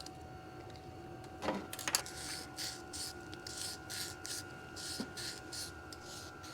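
Two sharp clicks, then quick rhythmic rubbing or scraping strokes, about two to three a second, over a faint steady hum.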